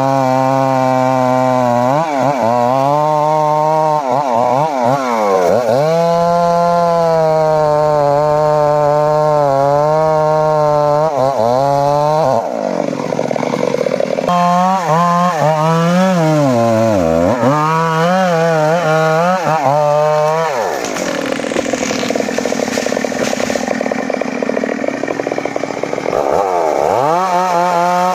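Chainsaw running at high revs while cutting mahogany, its pitch dipping and recovering again and again as the chain bites into the wood. It bogs down under heavier load for a couple of seconds around the middle and for several seconds after about twenty seconds in.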